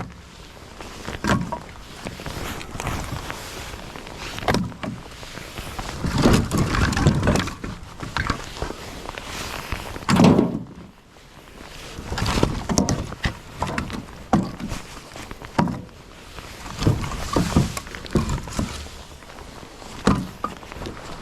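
Split firewood being handled and loaded: repeated knocks and thunks of wooden pieces striking one another and landing, with scraping and shuffling between.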